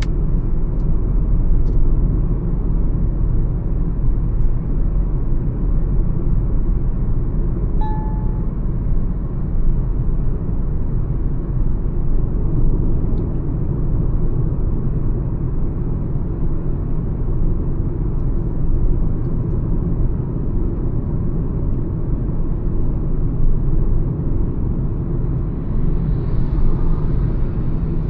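Mahindra XUV 300 cruising on a highway: a steady low rumble of engine, tyres and wind. A brief single tone sounds about eight seconds in.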